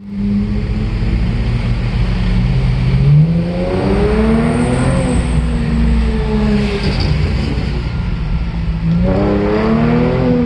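A car's V6 engine and exhaust under acceleration, heard from inside the cabin. The engine note climbs from about three seconds in, drops at an upshift about two seconds later, and climbs again near the end.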